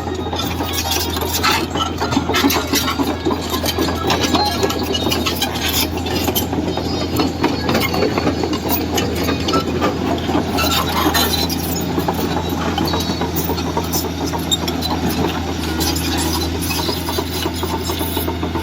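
Heavy diesel machinery running steadily, a deep engine drone with frequent rattling and clanking over it.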